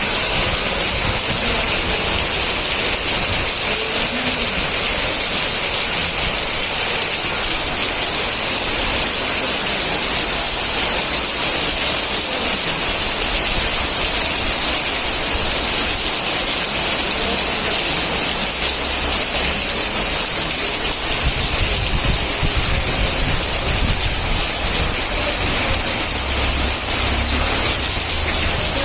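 Heavy rain pouring steadily, a dense even hiss of rain hitting surfaces, with some low rumble underneath.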